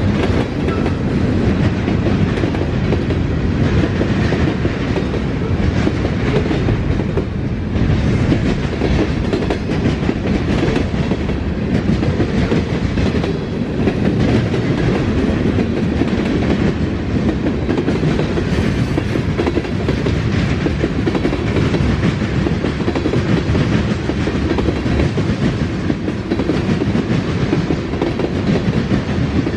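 Norfolk Southern train 14J's cars rolling past with a steady loud rumble and wheels clacking over the rails.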